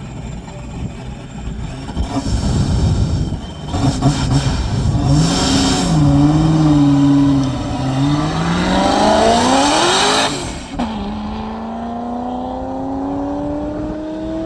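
A race car launching from a standing start and accelerating hard, its engine note climbing and dropping back at each gear change, the last shift about three quarters of the way through. After that shift it keeps pulling in one long rising note. It is a good, clean start.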